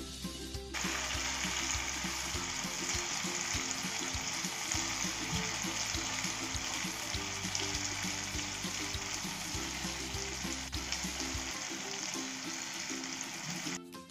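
Paneer Manchurian frying in oil in a pan: a steady sizzle that starts suddenly just under a second in and cuts off suddenly near the end.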